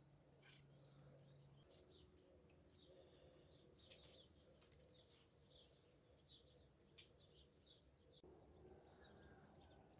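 Near silence with faint, scattered chirps of small birds and a few faint clicks.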